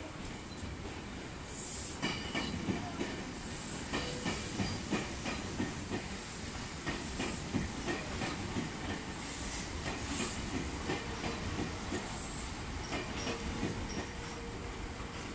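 Meitetsu 2000-series and 9500-series electric train pulling slowly into the platform, its wheels clattering over the rails with short bursts of hiss every couple of seconds. A faint steady hum comes in near the end.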